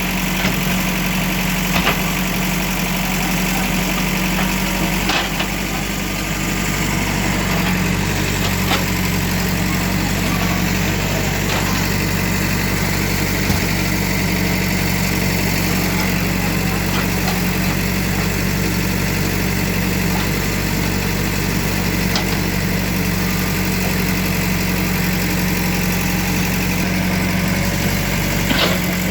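Engine of a heavy demolition machine running steadily at a constant pace, with a few sharp knocks scattered throughout.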